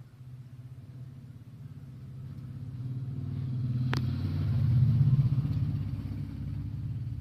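Low engine rumble that swells to its loudest about five seconds in and then fades, with a sharp click about four seconds in.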